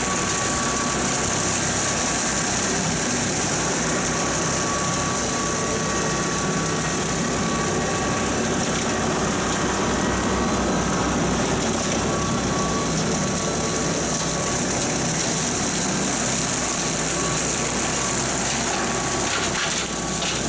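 Kubota L3901 tractor's diesel engine running steadily at working speed while driving a Land Pride RCR1860 rotary cutter off the PTO during mowing: a loud, even drone with a strong high hiss, and a few light clatters near the end.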